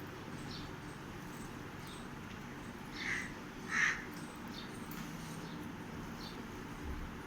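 Cockatiel calling: two short, clear calls a little over half a second apart, about three seconds in, with faint brief chirps around them over a steady low hum.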